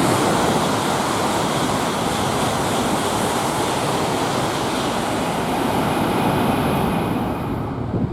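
Tohoku Shinkansen train passing through the station at speed without stopping: a loud, steady rush of air and wheel noise that dies away near the end.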